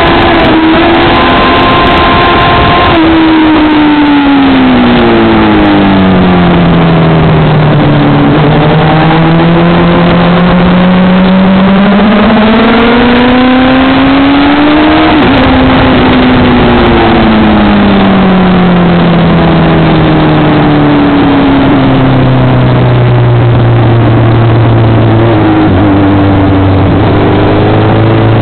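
Motorcycle engine at speed, heard from an onboard camera over a constant rush of wind. Its pitch falls going into corners and climbs again under acceleration, drops suddenly about halfway through, sits low for several seconds, then rises near the end.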